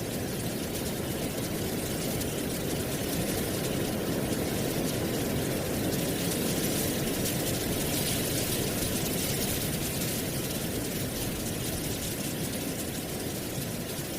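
Wind blowing through trees with dry autumn leaves rustling: a steady rush that swells a little louder in the middle and eases off near the end.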